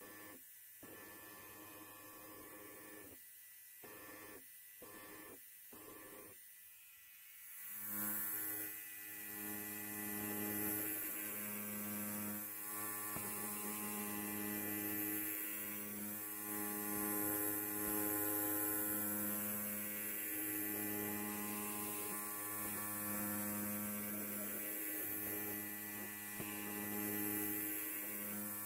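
Electric hair clipper buzzing. It is quieter with brief breaks for the first several seconds, then louder and steady from about eight seconds in, the hum wavering slightly.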